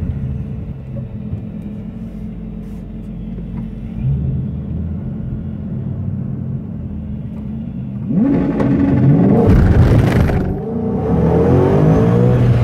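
Supercharged 5.0 V8 of a 2012 Mustang GT, heard from inside the cabin, running at a steady low idle. About eight seconds in it revs up under hard acceleration, its pitch climbing, dipping briefly once, then climbing again.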